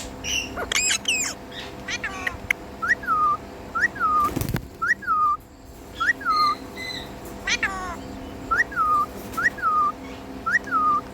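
Indian ringneck parrot calling in a run of short whistled notes that each rise then drop, well under a second apart, with a few longer gliding calls among them. A single knock sounds about halfway through.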